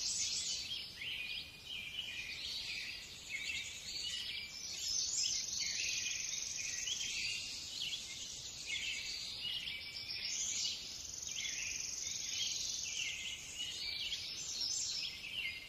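Small birds chirping continuously in a dense, high-pitched chorus of short calls.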